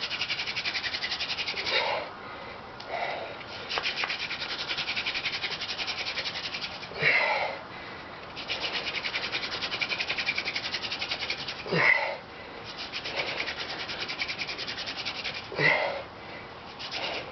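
Sotol hand-drill spindle spun between the palms in a notch in a sotol hearthboard: rapid, even rubbing and scraping in four runs of a few seconds each, while the maker works to grind hot powder into a coal. Between runs come sharp breaths.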